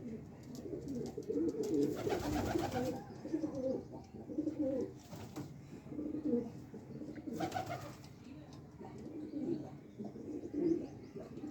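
Pigeons cooing over and over in low, repeated calls. Two short bursts of rustling noise come through, one about two seconds in and one past the middle.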